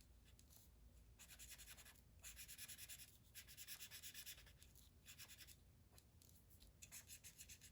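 Faint scratching of a drawing tool colouring on paper with rapid back-and-forth strokes, in several runs of about a second with short pauses between them.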